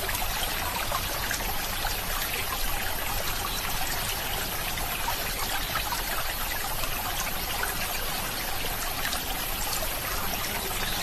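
Small stream trickling and flowing steadily.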